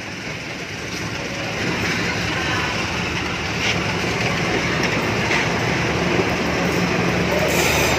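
Passenger train coaches rolling past at close range as the train picks up speed, the wheel and rail noise growing steadily louder, with a few clacks from the wheels over rail joints.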